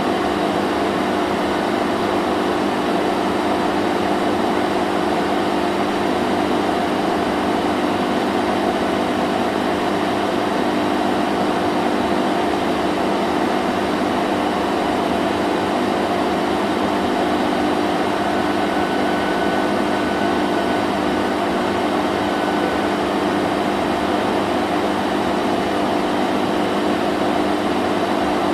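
Vacuum cleaner running steadily: an even rush of air over a constant motor hum.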